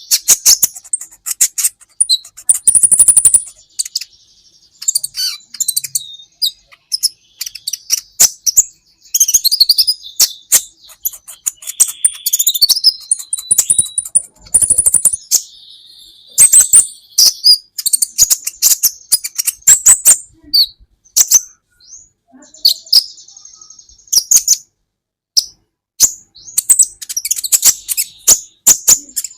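Kolibri ninja sunbird singing: fast strings of high, sharp chirps and trills, in bursts broken by short pauses.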